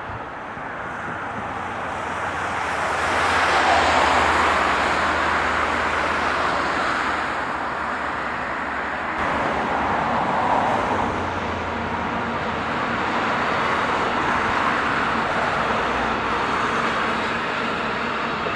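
A train running past: a continuous rolling rush with a steady low drone underneath, swelling and easing a few times, loudest about four seconds in.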